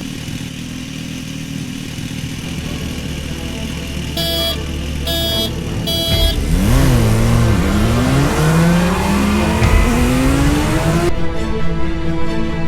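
E-Ride Pro electric dirt bike under way: steady wind and road rumble, three short beeps about four to six seconds in, then a motor whine that dips and then climbs steadily in pitch as the bike speeds up.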